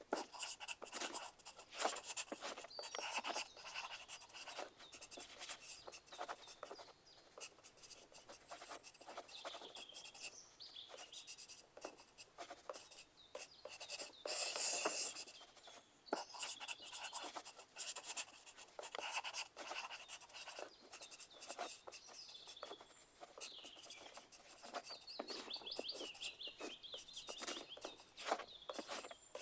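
Pencil writing on paper: continuous scratchy strokes and light taps in an irregular rhythm, with a busier stretch about halfway through.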